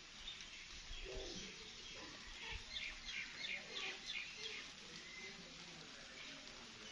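A bird calling: a run of about seven short, high chirps, roughly three a second, starting about two seconds in and lasting about two seconds, over faint outdoor background.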